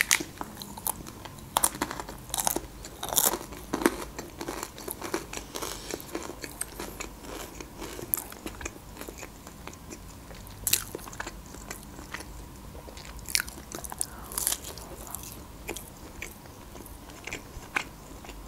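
A person chewing and biting breaded fried chicken, with irregular small crunches and clicks.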